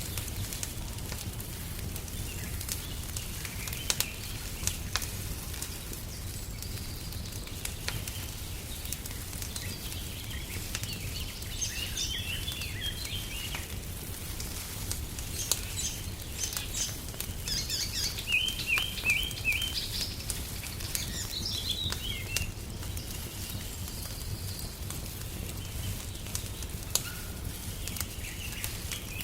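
Wood fire crackling, with scattered sharp pops over a steady low rumble. Songbirds sing short, quick chirping phrases through the middle stretch.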